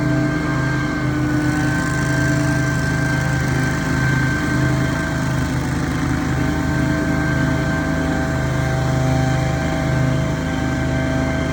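Engine of a piece of lawn-care power equipment running steadily at a constant speed, with a steady higher whine over the engine drone.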